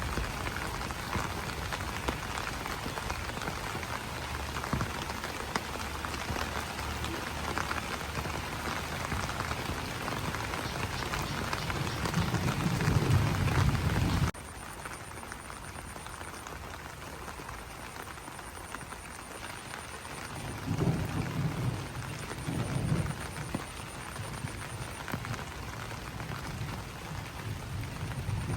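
Rain pattering steadily on broad banana leaves, a dense crackling hiss of drops with a low rumble swelling in twice. About halfway through the sound drops suddenly to a quieter, duller patter.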